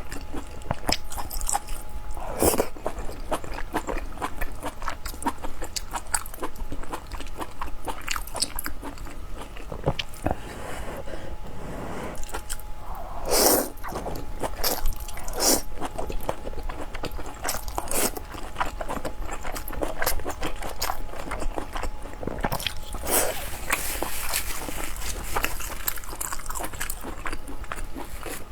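Close-miked eating: a person chewing and biting food with many small wet mouth clicks, and a few louder, fuller noises along the way.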